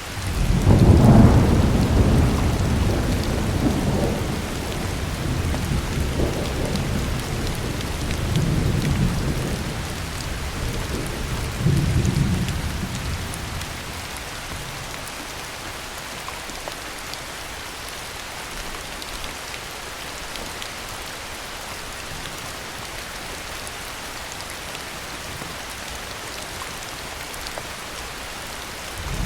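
Heavy rain falling steadily with a long roll of thunder. The thunder rumbles in from the start, swells again several times and fades out after about fourteen seconds, leaving only the steady hiss of the rain.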